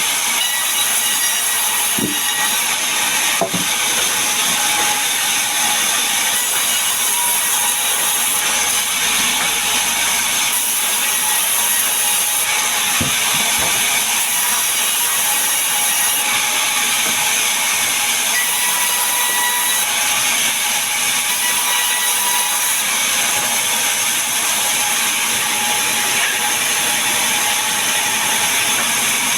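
Power saw running steadily as it saws mahogany and pine timber, a loud even hiss with a faint steady whine, broken by a few light knocks.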